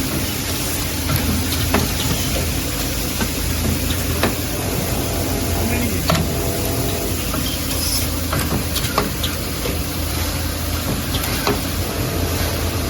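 Nail-making machinery running: a steady low hum with a noisy mechanical haze, broken by irregular sharp metallic clicks every second or two.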